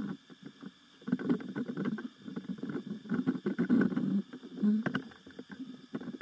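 Gurgling underwater bubbles in irregular bursts of one to three seconds, with a crackle running through them, heard over a diver's radio link.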